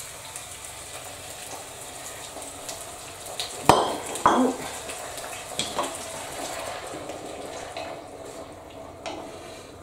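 Onion and tomato sizzling in hot oil in a casserole pot, a steady hiss. About four seconds in come two loud knocks against the pot, then a few lighter clinks.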